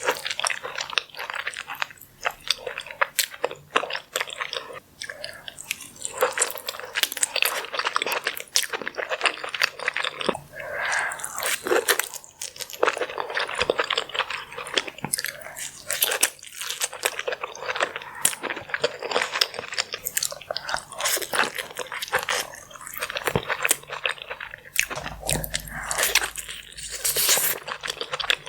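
Close-miked eating: a person biting and chewing with continual crunching and crackling, irregular and unbroken.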